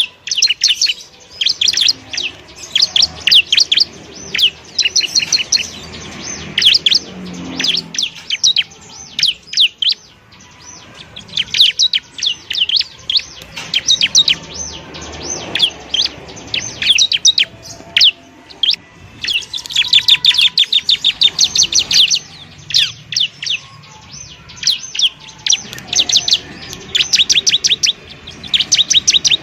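Bar-winged prinia (ciblek) singing in fast runs of sharp, high chirps, many a second, in bursts with short pauses between them.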